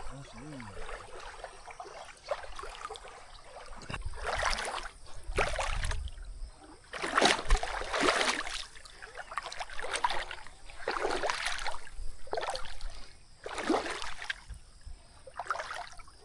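River water splashing and sloshing in repeated swishing strokes, roughly one every second, starting about four seconds in.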